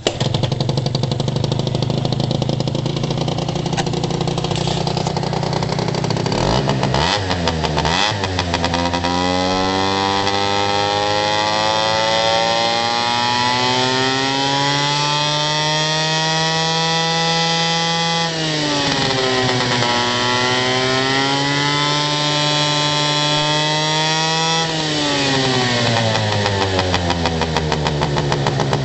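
Honda Live Dio AF34E 50cc two-stroke scooter engine running just after starting. It stutters a few seconds in, then revs up and holds a high steady speed, dips sharply and picks up again, and drops back toward idle near the end.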